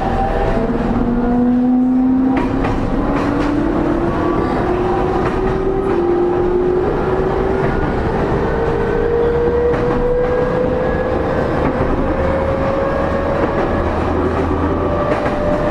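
E231-0 series electric train's traction motors and inverter whining, the pitch rising steadily as the train accelerates, over the rumble of wheels on rail with scattered clicks, heard from inside a motor car.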